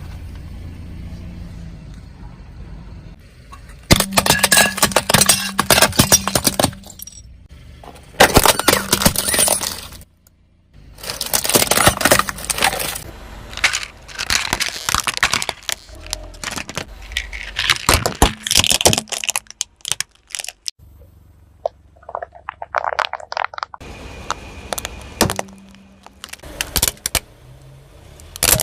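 Repeated bursts of crunching, cracking and snapping as objects are crushed under a car's tyres, each burst lasting one to three seconds, with quieter gaps between.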